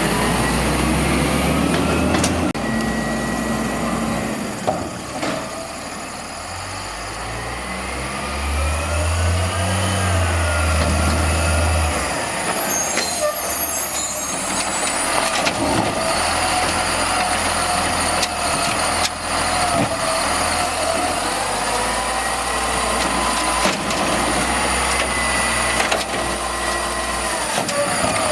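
Volvo Xpeditor garbage truck with an Amrep Octo automated side loader working, its engine speeding up and slowing down with a whine that rises and falls as the hydraulics run the lift arm. Scattered knocks through it, and a short hiss of air about halfway through.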